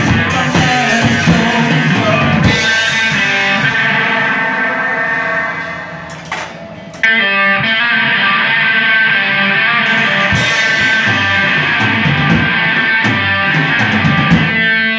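Live rock band playing an instrumental passage led by electric guitar. The music thins and fades from about five seconds in, then comes back in at full level suddenly at about seven seconds.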